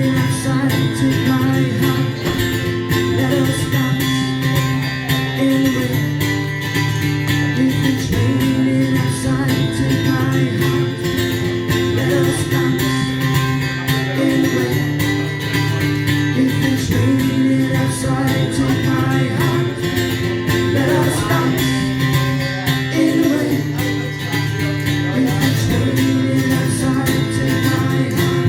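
Live music led by strummed guitar, in an instrumental passage of the song without a lead vocal.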